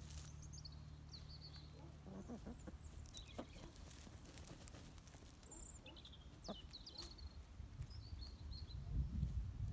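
Faint, short bird chirps scattered through, high-pitched, with a few soft clicks and a low rumble rising near the end.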